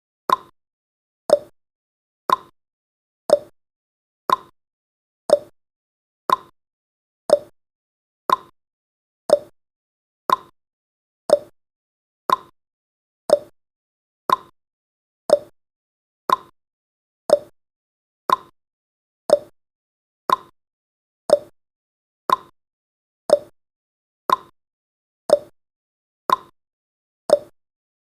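Countdown timer's ticking sound effect: a short, sharp tick once a second, evenly spaced, alternating between a higher and a lower pitch like a tick and a tock.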